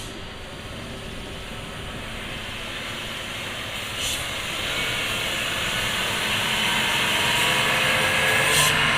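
Overloaded dump truck creeping down a steep descent with its brakes squealing and screeching under the load, growing louder as it comes closer. Short bursts of air hiss about four seconds in and again near the end.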